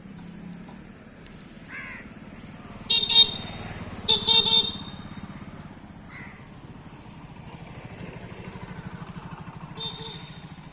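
Vehicle horns honking over a steady running engine: a short honk about three seconds in, a longer stuttering honk a second later, and a brief one near the end.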